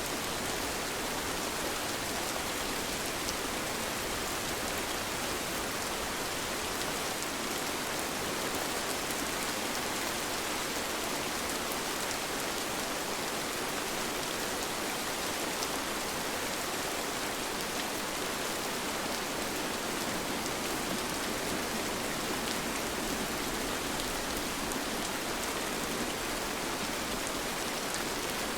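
Steady rain falling, an even hiss of many drops with faint individual drop taps, unchanging throughout; no thunder and no music.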